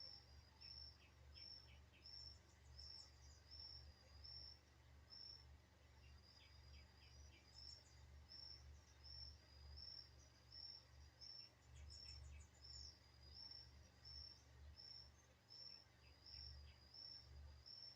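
Faint natural ambience: a steady series of short high chirps, about one and a half a second, with a few brief rapid runs of bird or insect chips over a low rumble.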